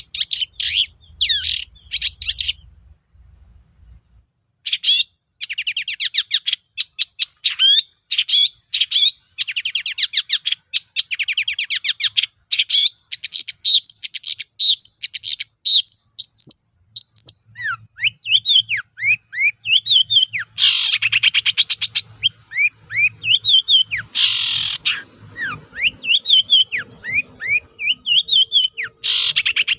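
Long-tailed shrike (cendet) singing loudly in a stream of rapid chattering trills and quick up-slurred whistled notes, with a short break a few seconds in. Two harsh rasping bursts come near the middle.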